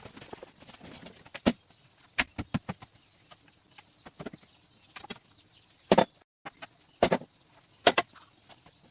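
Irregular sharp knocks and clicks of hand work with wood, with a handful of louder strikes among them.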